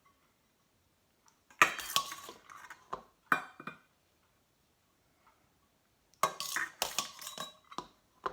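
A spoon clinking and scraping against cookware as rice is spooned out and layered, in two spells of clatter, the second starting about six seconds in.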